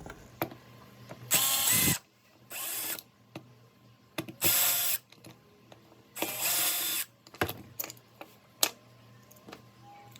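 Cordless drill/driver run in four short bursts, about half a second to a second each, backing out the screws of the dryer's cord connection cover, with clicks and knocks of parts being handled between.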